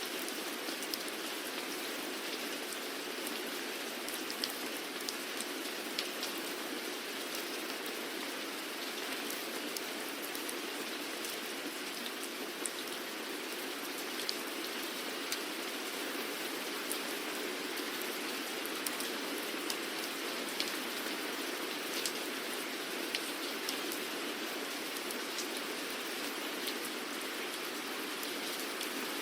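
Steady rainfall, an even hiss with individual drops ticking sharply on a surface here and there.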